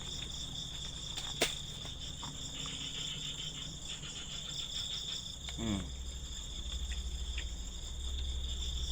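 Night insects chirring steadily, with one sharp knock about a second and a half in and a brief falling tone a little past the middle: an unexplained noise in the dark that nobody can see a source for.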